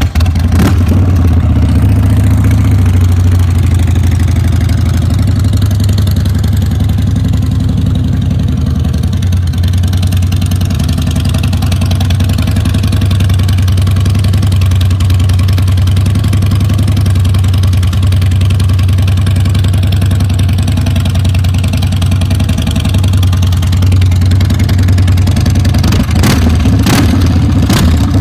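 2013 Harley-Davidson Street Bob's Twin Cam 103 V-twin firing up and settling into a loud, steady idle through aftermarket exhaust pipes.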